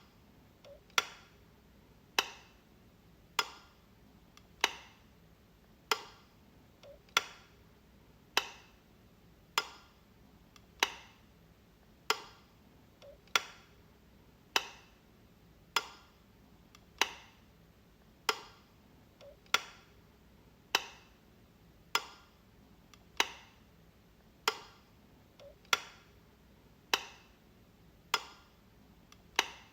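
A light switch clicking, flipped at an even pace of about one sharp click every 1.2 seconds, each with a short tail. Some clicks have a fainter click just before them.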